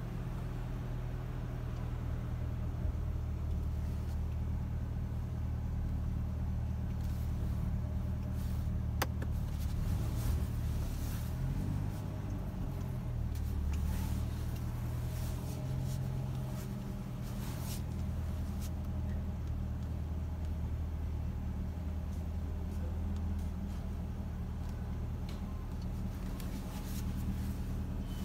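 Corvette C8's V8 engine idling, a steady low hum heard from inside the cabin, its pitch shifting slightly around the middle. Faint clicks and rustles of handling come over it now and then.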